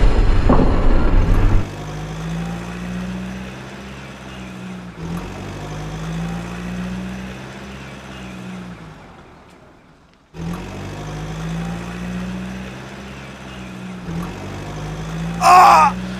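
Truck engine running at a low, steady pitch, fading out about ten seconds in and starting again a moment later. A loud crash dies away at the start, and near the end there is a short, loud wavering sound.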